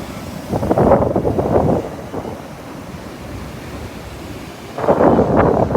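Sea surf washing onto the beach, with wind buffeting the phone's microphone. The noise swells about a second in, eases off, and surges again near the end.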